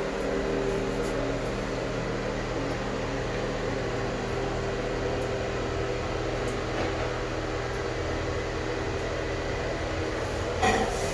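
Steady mechanical hum with several fixed low tones under an even noise, and a brief knock near the end.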